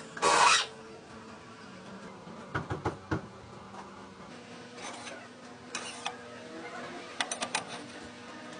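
A short, loud rasping scrape, then scattered sharp clicks and knocks, with a quick run of several clicks near the end.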